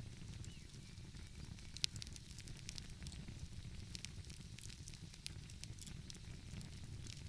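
Wood fire crackling, with sharp pops scattered through it, the loudest a little under two seconds in, over a steady low rumble.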